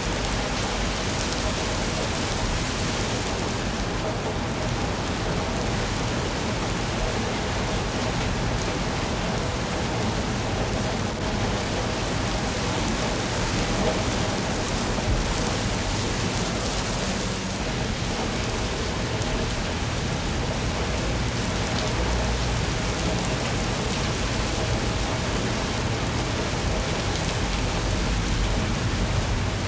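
Steady rainfall, a continuous even hiss of rain coming down.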